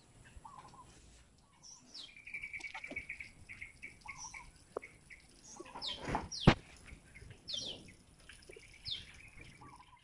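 Small birds calling: short, downward-sliding high chirps repeated a few times, with a quick run of repeated notes about two seconds in. A sharp tap about six and a half seconds in is the loudest sound.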